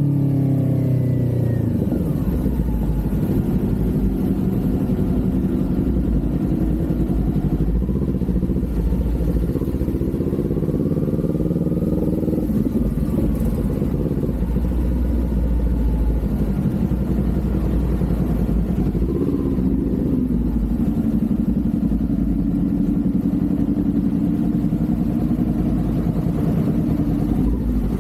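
Kawasaki Z400's parallel-twin engine heard while riding. The revs fall in the first couple of seconds, climb gently for a few seconds, then settle to a steady, fairly low pitch through the second half.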